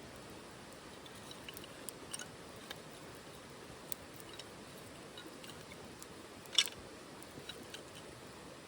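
Wood fire burning in a OneTigris titanium wood stove: a low steady hiss with scattered small crackles and pops, one much louder pop about six and a half seconds in.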